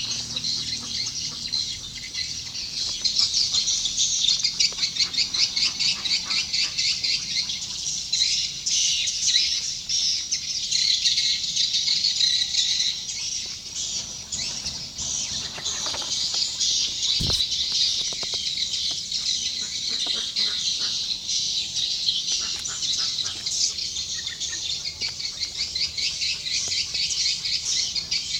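Swiftlet calls: a dense, continuous high-pitched chittering twitter, the kind of call sound played to lure swiftlets into a swiftlet house. One sharp click about 17 seconds in.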